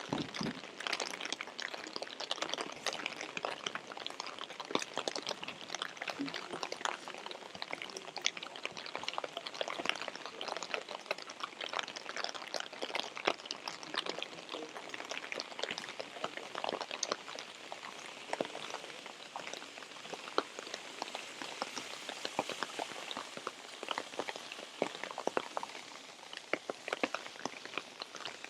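Steady rain falling, with many close, irregular drop impacts ticking throughout.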